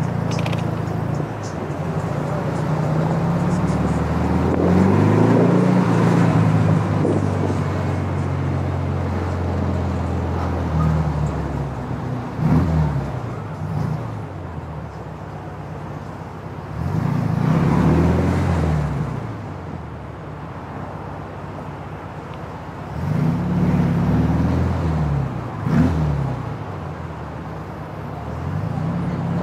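GT40 replica's engine driving in traffic, pulling in several surges of acceleration whose pitch rises and then falls, with short sharp throttle blips about halfway through and near the end, running lower and steadier in between.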